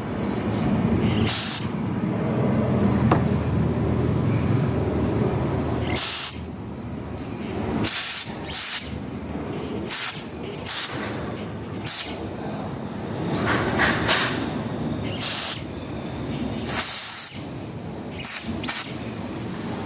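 Repeated short hissing bursts of spray, about a dozen, some close together in pairs, over a low rumble during the first six seconds or so.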